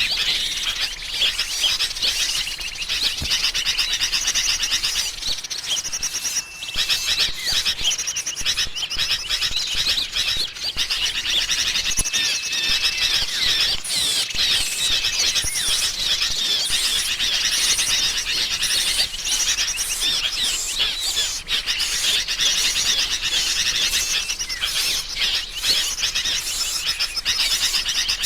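Agitated sooty-headed bulbul calls mixed with the calls of small songbirds, forming a dense, continuous high chatter: a bird-lure recording of alarm calls made to draw small birds in. A few short, level whistle notes stand out above the chatter.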